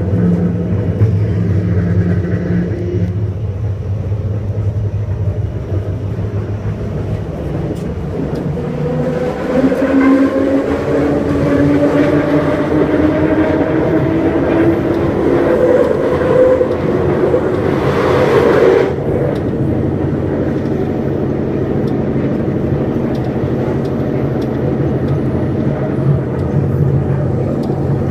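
Scarborough RT train, a linear-induction-motor rapid transit car, running on its track. About a third of the way in, a whine rises slowly in pitch as the train picks up speed. Just past halfway there is a short rush of noise, and after that it runs steadily.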